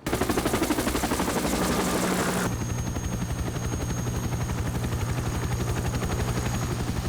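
Helicopter in flight: fast, even rotor-blade chopping over a steady engine hum. About two and a half seconds in the sound changes abruptly to a steadier chop with a thin, high turbine whine.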